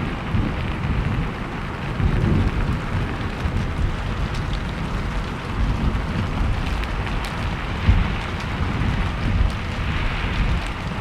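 Steady rain falling, with a low rumble running underneath it throughout.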